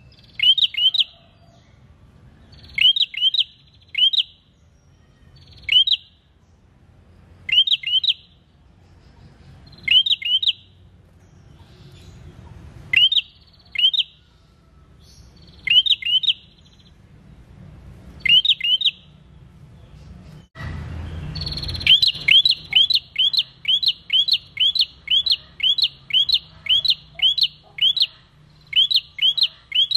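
A caged prenjak calling: sharp, high chip notes in groups of two or three every second or two. Past the middle, after a short rush of background noise, the notes come faster, about two a second in an unbroken series.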